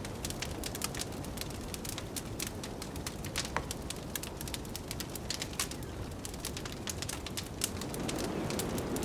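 Wood fire crackling in a fireplace, with many small sharp pops, over the steady rush of blizzard wind that grows a little louder near the end.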